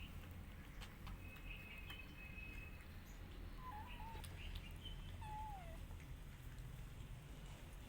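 A kitten mewing faintly twice, the second mew falling in pitch, over a low steady hum. A thin high chirp sounds about a second in.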